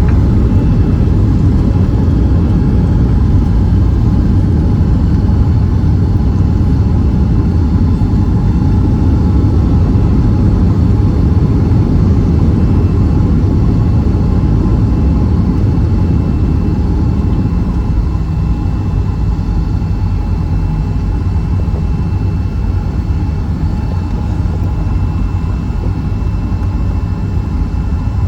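Boeing 757-300 cabin noise heard from a window seat: a steady, loud rumble of engines and airflow that eases off slightly about two-thirds of the way through.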